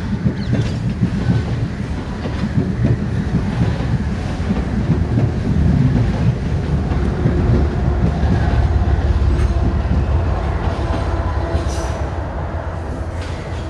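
A train passing on the tracks with a heavy low rumble of wheels on rail, swelling to its loudest past the middle and easing off near the end.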